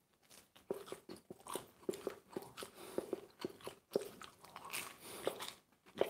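A person biting and chewing crisp pizza crust close to the microphone: a quick run of soft crunches, several a second.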